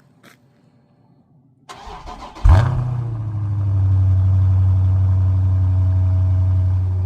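Dodge Challenger Scat Pack's 392 HEMI V8 on its stock exhaust, cold-started: the starter cranks briefly, the engine catches with a loud flare about two and a half seconds in, then settles into a steady cold idle.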